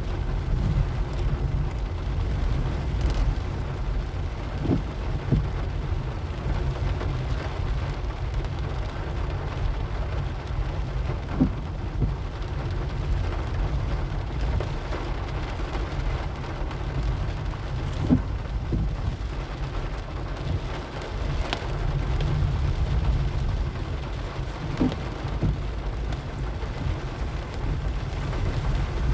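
Steady rain with the deep, continuous low rumble of a car driving, and a few faint knocks about every six to seven seconds.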